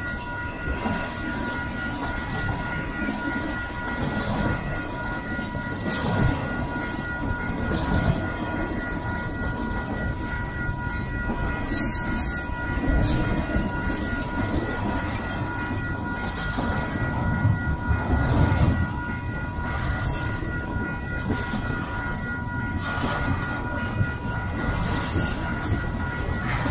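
Double-stack intermodal container well cars of a long freight train rolling past: a steady wheel-on-rail rumble broken by scattered clanks and knocks, with a steady high ringing tone above it.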